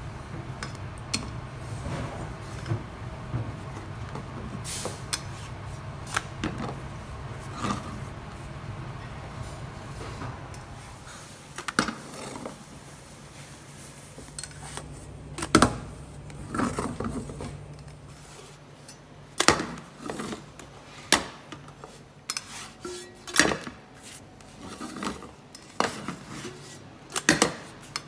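Kitchen utensils clinking and knocking against a pan at irregular intervals, over a steady low hum that stops about two-thirds of the way through.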